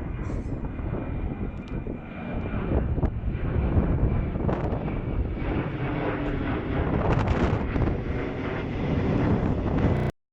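Airliner engines running as an aircraft passes close by, a steady heavy rush of engine noise mixed with wind buffeting the microphone.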